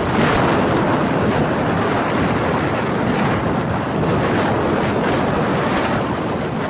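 Steady loud rushing noise of wind buffeting the microphone.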